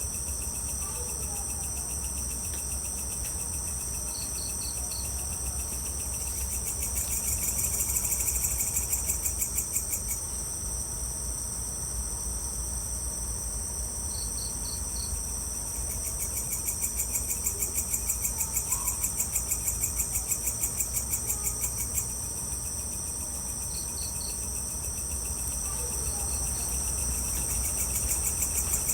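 Evening insect chorus of crickets: a steady high-pitched trilling that twice swells into a louder, fast pulsing trill. A separate chirp comes in short groups of three or four notes a few times.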